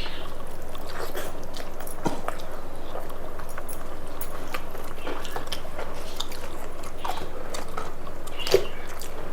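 People chewing and eating chicken curry with rice: a string of small wet clicks and mouth smacks, with a sharper click about two seconds in and another near the end, over a steady low hum.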